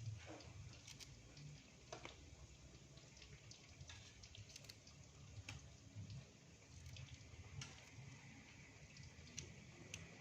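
Tempe frying in hot oil: a faint, steady sizzle with scattered small pops and crackles.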